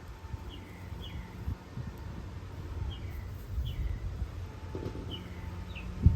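A small bird chirping: short, quick downward chirps, mostly in pairs, repeated several times. Underneath are a low rumble and soft knocks.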